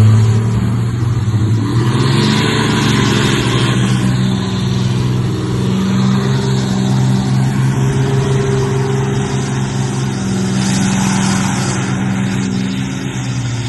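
A motor vehicle's engine running at a fairly steady pitch. A rougher hiss swells over it about two seconds in and again about ten seconds in.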